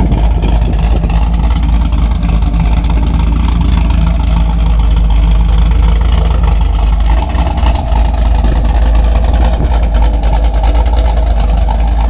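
Supercharged Chevrolet Camaro V8 running with a steady, loud low drone, dipping briefly a little past halfway.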